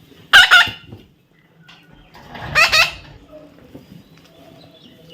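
Parrot giving two loud squawking calls, a short one just after the start and a longer one in the middle, each wavering in pitch.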